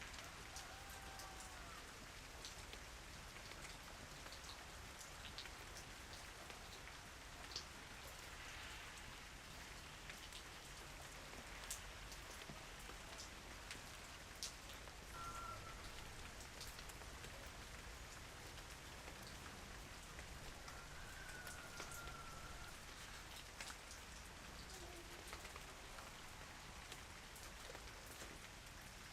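Steady light rain, with single heavier drops landing as scattered sharp ticks. A few faint short whistled tones sound about a second in and again near the middle.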